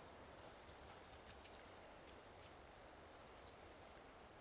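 Near silence: quiet forest ambience with a few faint high bird chirps and light rustles.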